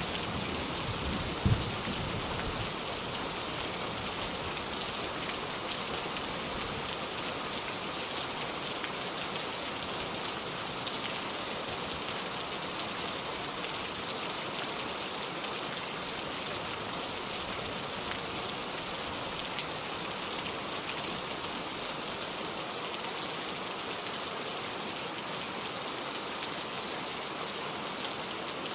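Steady rain falling, an even hiss of many drops. In the first two seconds a low rumble of thunder fades out, with one sharp crack about a second and a half in.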